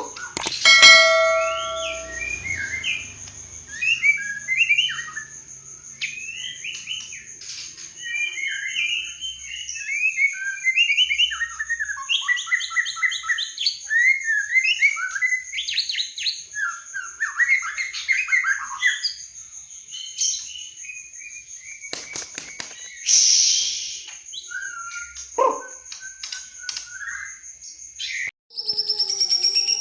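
White-rumped shama (murai batu) singing a long, varied song of quick whistled phrases that glide up and down, over a steady high-pitched whine. The song breaks off briefly near the end, then a new phrase starts.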